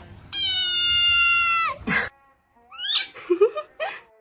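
Domestic cat meowing: one long, drawn-out meow, then a few short, broken meows rising in pitch about three seconds in.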